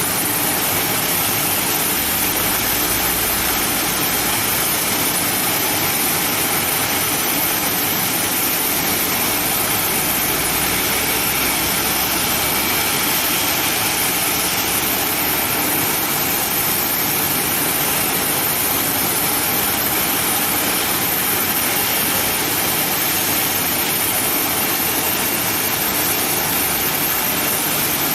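Boeing 737-800's CFM56 turbofan engines idling steadily with a high, even whine, the jet standing after pushback and ready to taxi.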